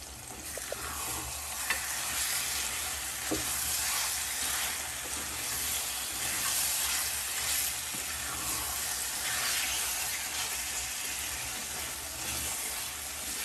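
Mutton and masala frying in a kadhai, sizzling steadily while a wooden spatula stirs and scrapes through it in repeated strokes that swell and ease every second or two. This is the bhuna stage, frying the meat with tomato and spices until the masala is cooked through.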